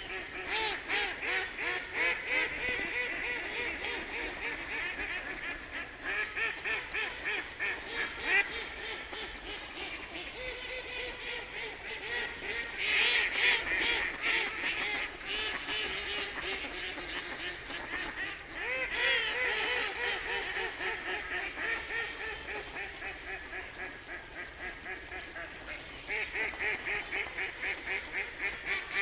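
A group of ducks quacking, many calls overlapping in quick rapid series, with louder stretches of calling about halfway through and again a little later.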